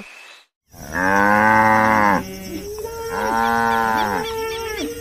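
Cattle mooing: two long moos, each about a second and a half, with lower calls sliding underneath.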